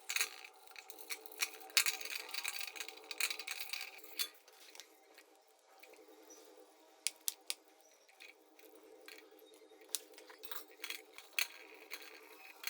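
Small metal carburettor parts and hand tools clinking and clicking as they are handled, in scattered light taps over a faint steady hum.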